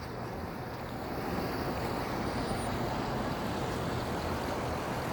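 Steady city street traffic noise on wet roads, growing a little louder about a second in.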